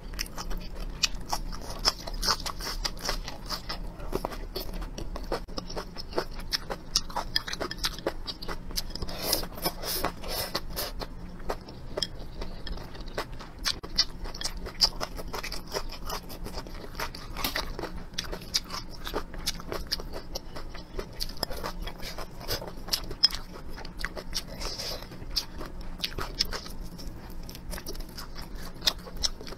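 Close-miked eating: a person chewing and biting through a meal of braised meat, rice and green chilies, with a steady run of small sharp crunches and clicks.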